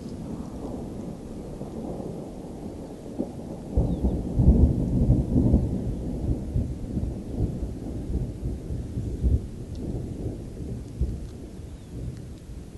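Thunder rumbling: a deep roll that swells suddenly about four seconds in, is loudest for a couple of seconds, then keeps rolling as it slowly fades.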